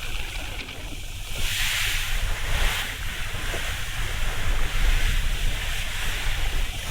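Strong wind buffeting the microphone in gusts, over the hiss of a choppy sea. The wind swells about a second and a half in and stays strong.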